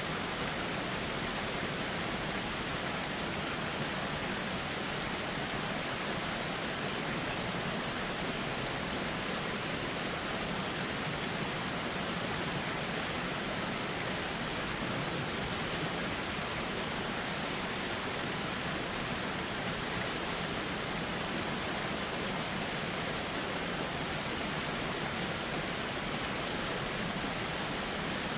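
A calm river flowing: a steady, unbroken rush of water with no change in level.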